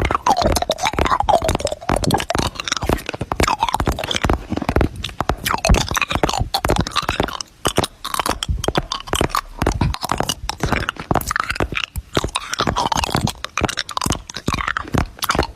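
Weird mouth noises made in a rapid, irregular stream of crunchy clicks and smacks, with short squeaky voiced bits sliding up and down in pitch.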